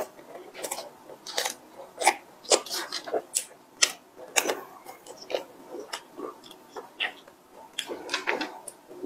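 Close-miked eating sounds: wet, irregular clicks and smacks of chewing a soft bread bun, followed by the bun being torn apart by hand.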